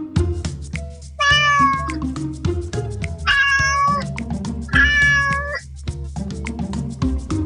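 Kitten meowing, three high cries of under a second each, over background music with a steady beat.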